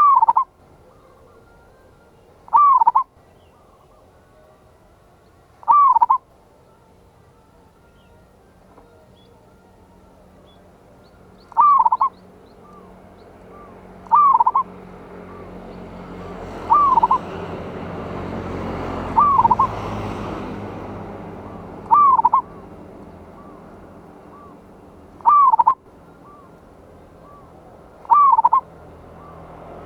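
Zebra dove (perkutut) cooing: ten short rolling phrases, one every two to three seconds with a longer pause early on. A low rushing noise swells behind the calls in the middle and fades again.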